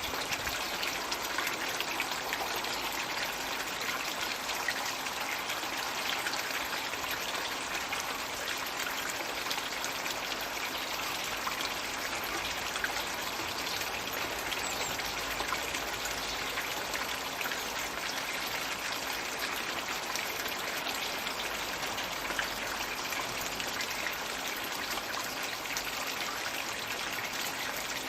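Floating Magic Bucket water feature running in a garden pond: a steady stream of water pouring and trickling into the pond.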